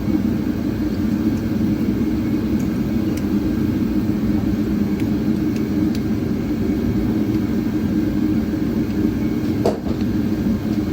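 A steady low rumbling drone, with a few faint light clicks and one sharper click near the end.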